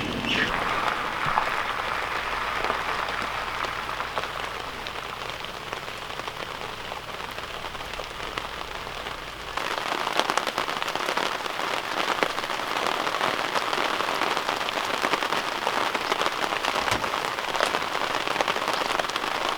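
Heavy rain falling and pattering on a surface, a steady hiss of many fine drop hits. About nine and a half seconds in it changes abruptly to a louder, denser patter.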